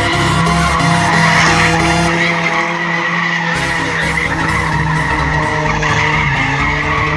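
Loud car noise at a race track: engines running hard with tyres skidding.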